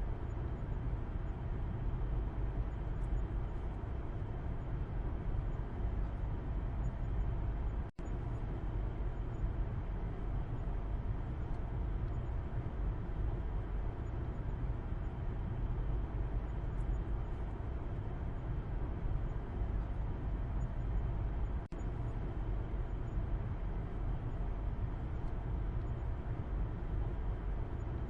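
Steady low road rumble inside a moving car, heard from the back seat: tyre and engine noise with no changes in speed. It cuts out for a split second twice, about 8 and 22 seconds in.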